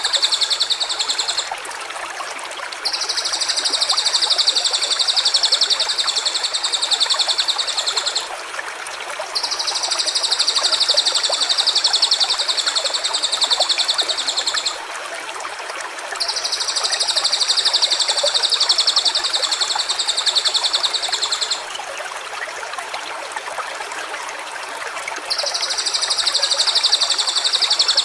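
A high, rapidly pulsing trill repeating in runs of about five to six seconds with short gaps, over the steady rush of a stream.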